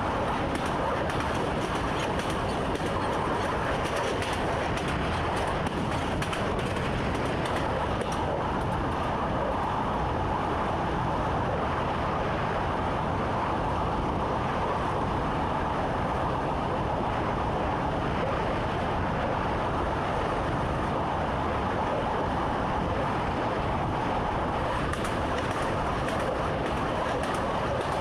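Train running along the track, heard from inside the driver's cab: a steady rumble and hum of wheels and running gear, with scattered faint clicks.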